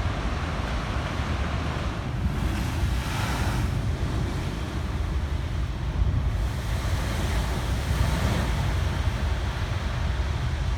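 Big waves breaking and washing in a high surf, with wind rumbling on the microphone. The hiss of breaking water swells up about two seconds in and again about six seconds in.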